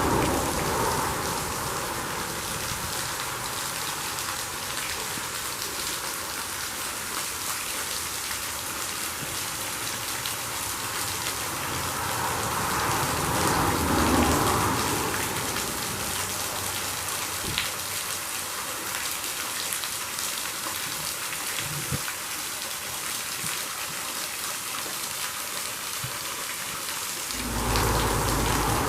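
Steady rushing hiss of a waterfall, with traffic passing on a nearby highway in three slow swells: at the start, about halfway through, and near the end, where it brings a deeper rumble.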